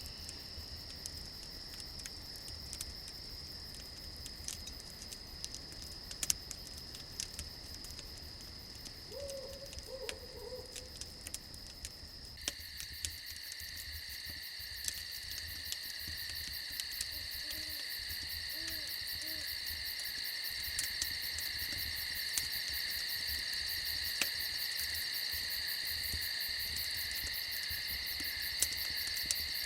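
Crickets chirring steadily at several high pitches, with campfire crackling as scattered sharp pops. A few short owl hoots come about ten seconds in and again near the middle. The crickets step up louder about twelve seconds in.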